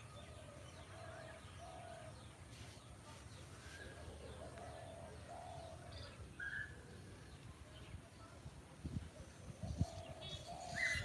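Birds calling faintly: short low notes, several in pairs, with a few higher chirps, over a low steady rumble.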